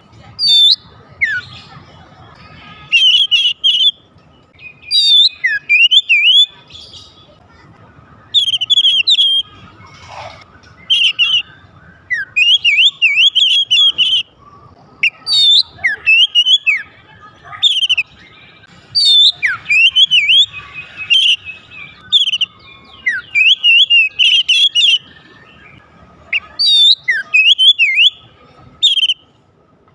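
Oriental magpie-robin (kacer) singing: repeated loud phrases of fast, rising and falling whistled notes, each lasting one to three seconds, with short pauses between them.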